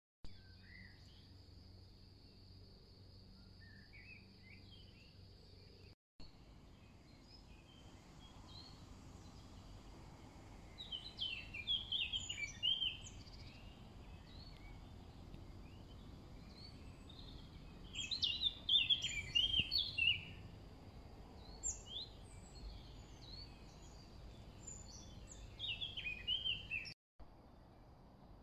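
Songbirds singing in woodland: short chirping phrases over a faint steady outdoor background, in bursts about eleven, eighteen and twenty-six seconds in.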